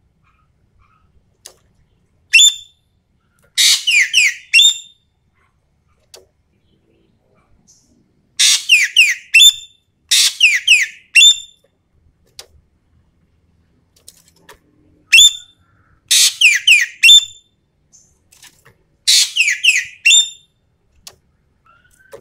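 Common green magpie (Sumatran ekek keling) calling in loud bursts of several quick, shrill notes, each sliding down in pitch, repeated every few seconds.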